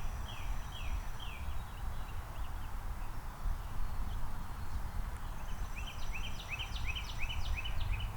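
A songbird singing: a run of short repeated notes at the start, then a quicker run of notes near the end, over a steady low rumble.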